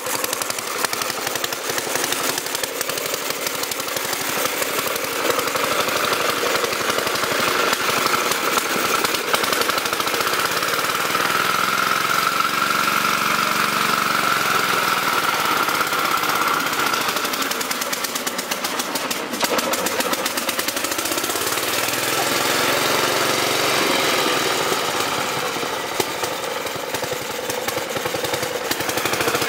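1920 Briggs & Stratton Flyer's single-cylinder motor-wheel engine running steadily with a rapid, even firing beat as the buckboard drives along.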